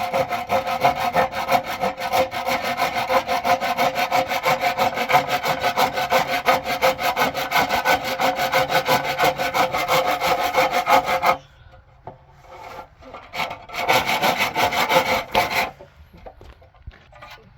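Wood being sawn in quick, even strokes. It stops about eleven seconds in, then a second, shorter spell of sawing follows.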